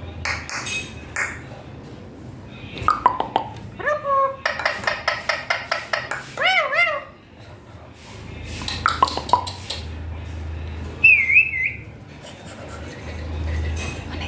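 Ringneck parrot whistling and chattering: sliding notes, a fast run of repeated calls, and short warbling whistles.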